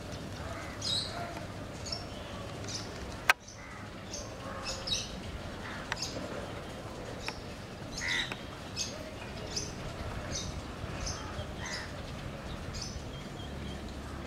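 Birds calling with short, high chirps, one or two a second, over a low outdoor rumble. A single sharp click sounds about three seconds in.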